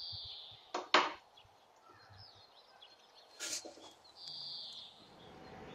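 A bird chirps twice: a short, high call at the start and again near the end, with two sharp clicks about a second in.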